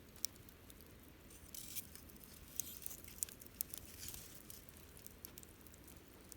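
Wood campfire crackling, with irregular sharp pops and brief hissing flurries. The loudest pops come a quarter second in and between about two and a half and three and a half seconds.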